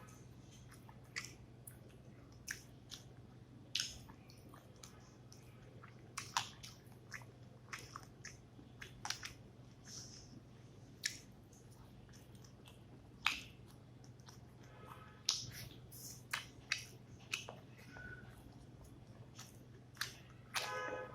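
Close-miked chewing and mouth sounds of a person eating rice with fish curry: irregular wet smacks and clicks, a few every second, over a steady low hum.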